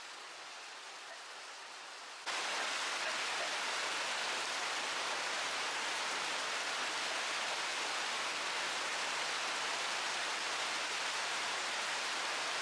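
Steady rain falling, an even hiss that turns louder about two seconds in.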